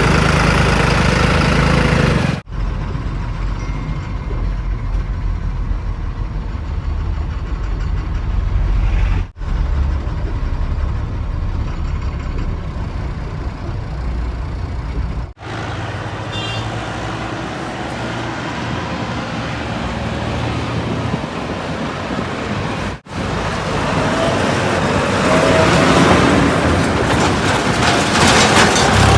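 Heavy diesel engines of earth-moving machinery and tipper trucks running, with a steady low rumble. The sound breaks off and changes suddenly four times where separate clips are joined.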